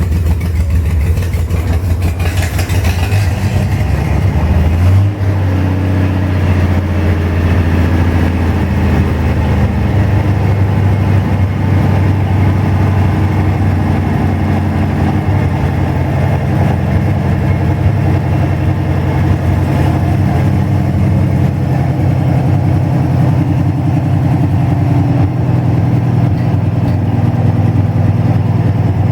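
Chevrolet 235 inline-six engine idling steadily in a T-bucket hot rod during its first runs, with a brief change in its note about five seconds in.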